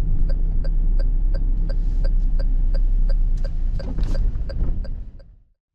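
Car cabin road rumble with a turn signal ticking steadily, about three ticks a second; both fade out about five seconds in.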